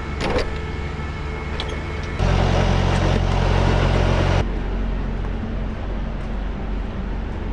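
Semi-truck diesel engine idling steadily. About two seconds in, a loud rushing noise starts abruptly, lasts about two seconds and cuts off suddenly.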